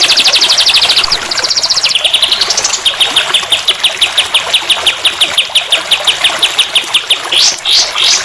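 Songbird song from a masteran (tutor) recording: a fast trill of repeated high notes that slows to an even chattering series, turning to a few rising whistled notes near the end, over a steady hiss.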